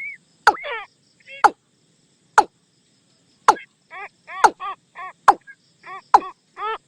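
Watercock calls used as a decoy to lure the birds in. Sharp, loud, falling clucks come about once a second, and from about four seconds in they are mixed with quick runs of shorter arched notes.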